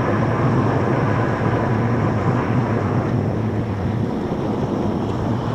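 Steady rumble of wind buffeting the microphone and tyres rolling on pavement as an electric bike is ridden along; the low rumble thins somewhat after about four seconds.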